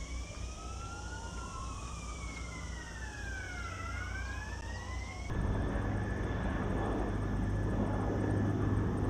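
Emergency-vehicle sirens wailing, their pitches slowly rising and falling out of step with each other. About five seconds in, the sound cuts suddenly to a louder, steady low engine drone.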